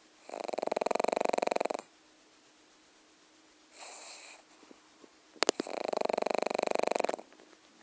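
A pug snoring: two long, fluttering snores about four seconds apart, with a softer breath between them.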